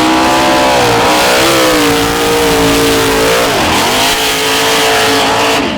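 An off-road vehicle's engine revving hard and held at high rpm. The revs dip briefly about three and a half seconds in, climb again, then drop off at the end, with a loud rushing hiss running under the whole run.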